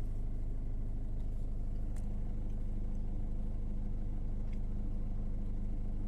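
Steady low hum of a car engine idling, heard inside the car's cabin, with a couple of faint ticks.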